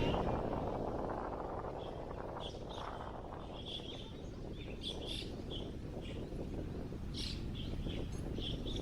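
Wind blowing, strongest in the first couple of seconds and then easing, with small birds chirping in short, scattered calls throughout.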